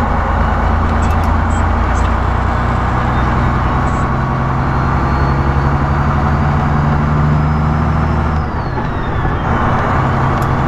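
Semi-truck diesel engine running under way, heard from inside the cab with road noise. The engine note steps up a couple of seconds in and drops out briefly about eight and a half seconds in before picking up again.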